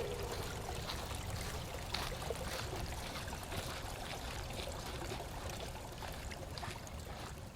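Water trickling steadily, with scattered light clicks over a low rumble. A ringing tone is fading out at the very start.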